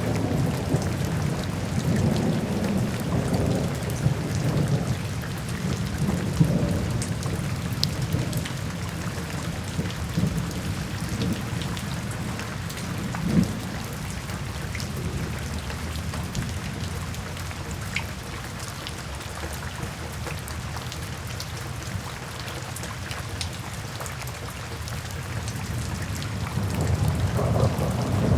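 Steady rain falling, with scattered drops ticking and a low rolling rumble of thunder that swells through the first half, eases off, and builds again near the end.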